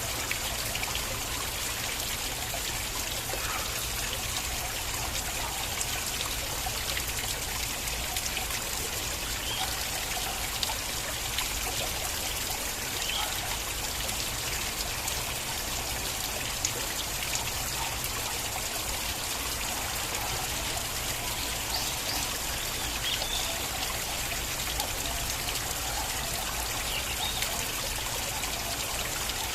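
Flowing stream of water trickling and splashing steadily, with small drips and splashes scattered through.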